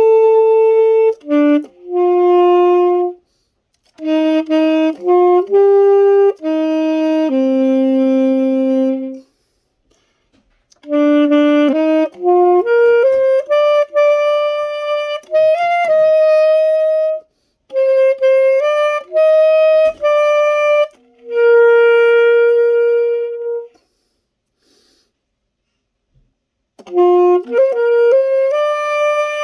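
Unaccompanied solo saxophone playing a slow ballad melody in phrases of held notes, with silent breaths between the phrases.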